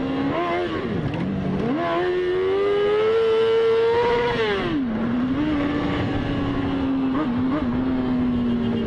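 Sport motorcycle engine revving: the pitch dips, climbs over about two seconds and holds high, then falls sharply about halfway through and runs steadily at a lower pitch.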